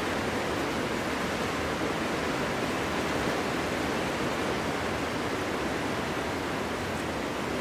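Wind blowing steadily: an even rushing noise with no gusts or lulls.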